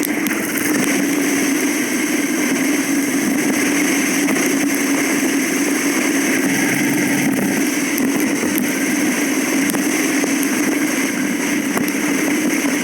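Steady riding noise from a bike moving at constant speed: a constant low hum with a rushing hiss over it, with no change in pace.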